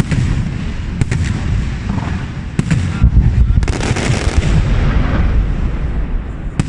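Fireworks going off: a steady low rumble of explosions with sharp separate bangs, breaking into a dense crackle about three and a half seconds in.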